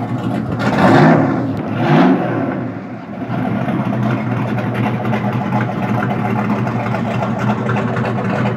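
Hot rod engine blipped twice in quick succession, the pitch rising and falling each time, then settling into a steady idle.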